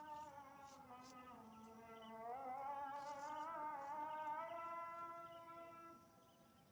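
A single voice singing long, drawn-out notes that glide slowly in pitch, with a wavering vibrato in the middle. It is faint and fades near the end.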